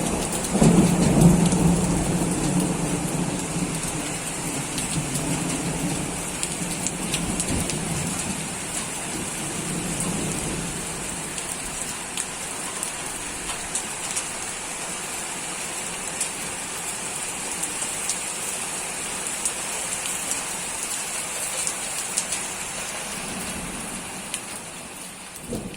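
Rain falling steadily, with fine drop clicks throughout. A low rumble of thunder at the start dies away over the first ten seconds or so.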